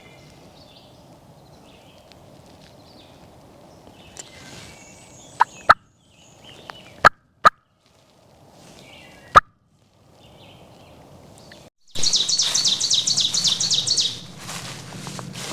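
A turkey gobble: a loud, rapid rattle lasting about two seconds, near the end. It is preceded by a few sharp clicks.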